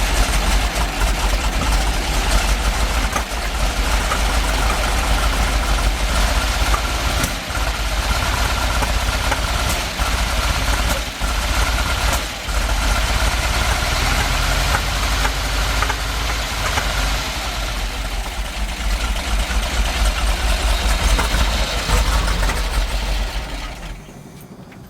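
Big-block V8 of a 1969 Chevrolet C50 truck running steadily with a few sharp pops, then shut off about a second before the end. The owner suspects the ignition timing is off.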